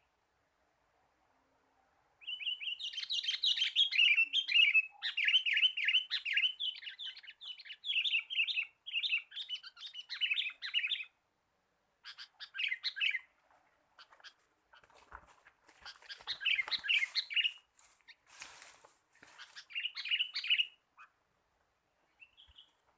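Sooty-headed bulbuls giving fast chattering calls in repeated bursts, with a short burst of rustling noise about three quarters of the way through.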